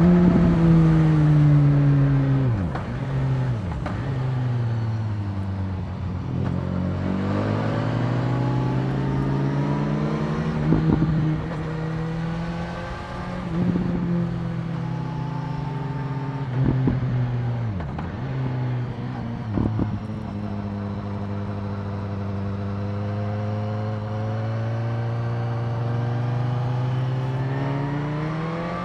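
BMW S1000R's inline-four engine under way. It drops in pitch as the bike slows at first, with several brief breaks in the note as the throttle comes off and on. It then runs at a steady moderate pitch and revs up again near the end.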